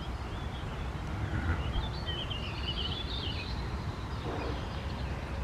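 A bird singing a short warbling phrase, starting about two seconds in and lasting a little over a second, over a low steady outdoor rumble.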